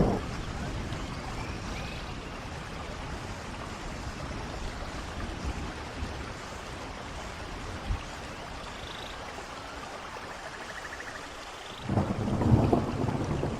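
Rain falling over the steady rush of a waterfall, an even wash of noise. About twelve seconds in, a low rumble of thunder swells up.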